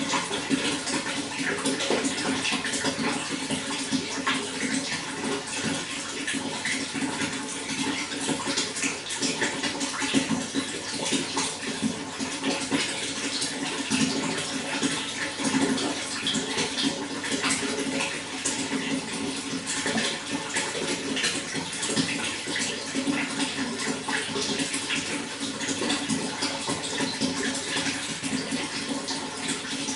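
Running water, a steady flow with many small splashes, unchanged throughout.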